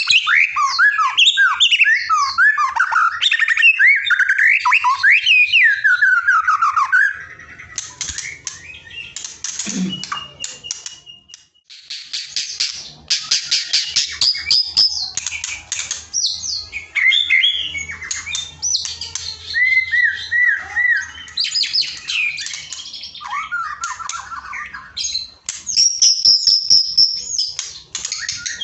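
Songbird song in a birdsong lure recording: for about seven seconds, quick runs of falling whistled notes, then fast clicking, rattling trills and chattering phrases. It is canary- and sogon-style 'nembak' fill-in song of the kind taught to white-rumped shamas.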